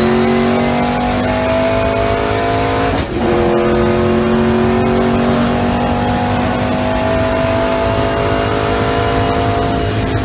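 ASA race car's engine under acceleration, its pitch climbing, with a brief break and drop in pitch about three seconds in as it shifts up, then rising slowly again in the next gear.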